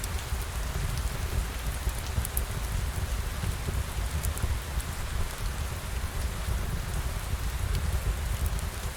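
Steady rain ambience with a low rumble underneath and scattered small ticks of drops.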